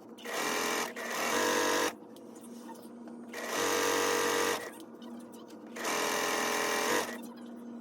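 A small electric-motor machine running in short runs of about a second each, four times, stopping briefly between runs.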